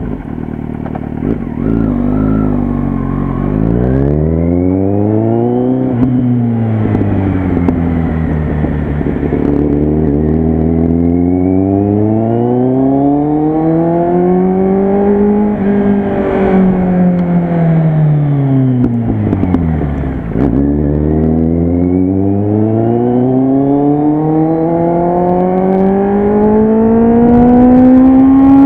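Kawasaki Z800's inline-four engine through an aftermarket Jeskap exhaust under way. It runs steady at first, then climbs in revs with a sudden drop at a gear change about six seconds in, rising again until midway. It eases off to a low about twenty seconds in, then pulls back up through the revs near the end.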